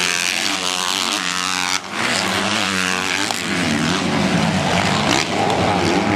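Motocross bikes racing, their engines revving up and down again and again, with more than one bike heard at once.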